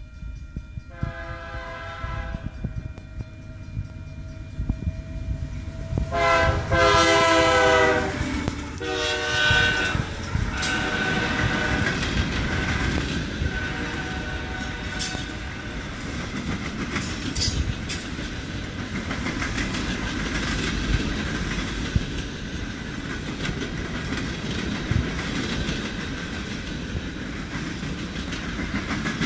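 Union Pacific 9673 diesel locomotive sounding its horn as it approaches: a short blast about a second in, then a long loud blast and a shorter one a few seconds later. The freight train then rolls past, its wheels clattering over the rail joints in a steady rumble with a thin high tone over it.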